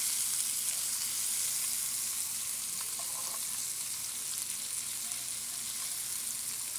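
Sliced bell peppers sizzling steadily in hot oil in a nonstick pan, turned over with metal tongs, with a few light clicks about three seconds in.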